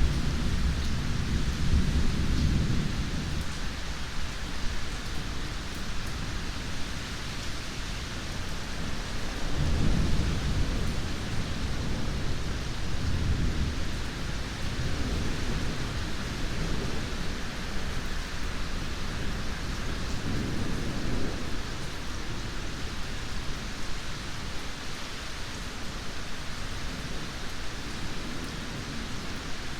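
Steady heavy rain with low rolling thunder that swells several times, loudest at the start and again about ten seconds in, and dies away toward the end.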